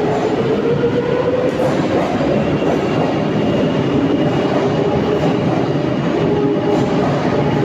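Madrid Metro train running through the station: a loud, steady rumble of wheels on rail, with a whine that rises slightly and fades about two seconds in.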